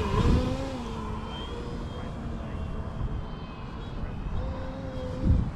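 Electric RC model airplane's brushless motor and 14x7 wooden propeller humming in flight, its pitch steady for a moment, fading, then rising again near the end as the plane comes back around. Low rumble of wind on the microphone, with a gust thump just before the end.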